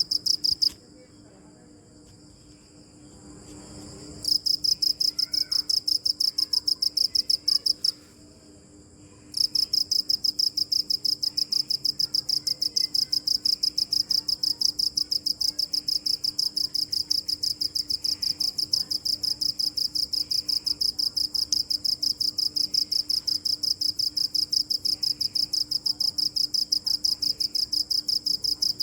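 Cricket chirping in a fast, even train of high-pitched pulses, which breaks off twice for a few seconds in the first third and then runs on steadily.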